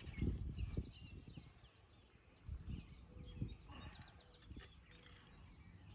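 Birds chirping in short calls, with bursts of low rumble in the first second and again about two and a half seconds in.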